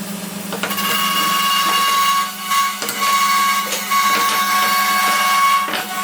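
A small electric motor running with a steady high whine over a low hum, dipping briefly a few times.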